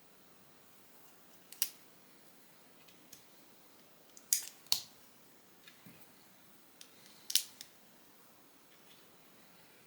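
Plastic Lego bricks being handled and pressed together, giving sharp clicks: one, then a close pair, then one more, with fainter ticks of pieces in between.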